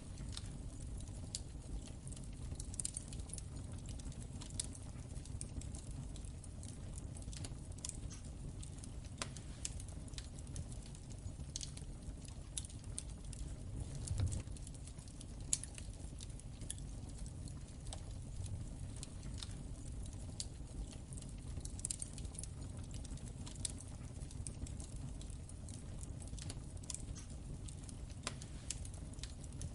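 Wood fire crackling in a fireplace: irregular sharp snaps and pops over a steady low rumble of the flames, with a louder pop or two about halfway through.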